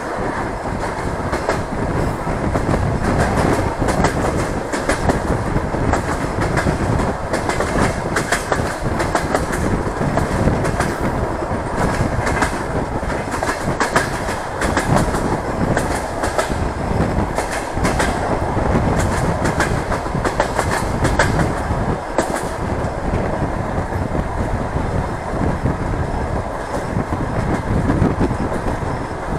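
DR1A diesel multiple unit running along the line, heard through an open carriage window: a steady loud rush of running noise with wheels clicking and clattering over the rails throughout.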